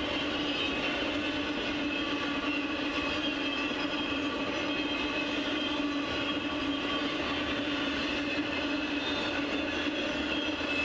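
Intermodal freight train cars rolling past at speed: a steady, unbroken sound of wheels on rail with a constant hum running through it.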